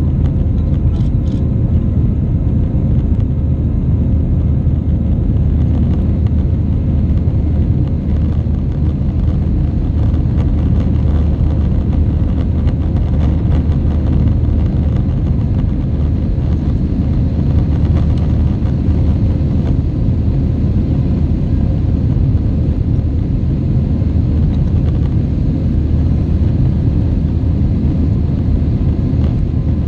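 Airbus A320-232's IAE V2500 jet engines and airflow heard from inside the passenger cabin as a loud, steady low rumble with a faint hiss above it.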